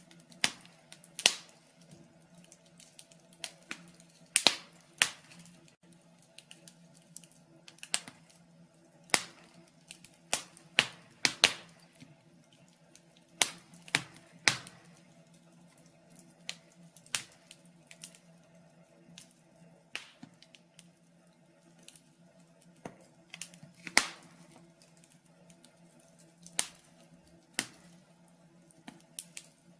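Wood fire in a fireplace crackling: irregular sharp snaps and pops, a few louder cracks standing out among smaller ticks.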